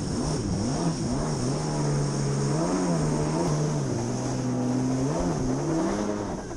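Two-stroke stand-up jet ski engine running, its revs rising and falling over and over with the throttle.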